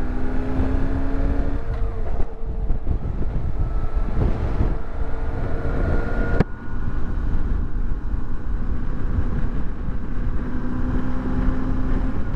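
BMW R1150GS Adventure's flat-twin boxer engine running under way, with wind rush over the microphone. The engine note climbs slowly, then breaks off with a click and a brief dip about six and a half seconds in.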